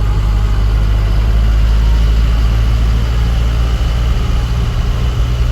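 Light truck's diesel engine running steadily, a deep even hum with no change in pitch.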